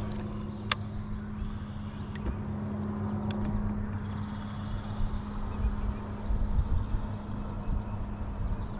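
A motor running with a steady low hum over a low rumble, with a sharp click less than a second in.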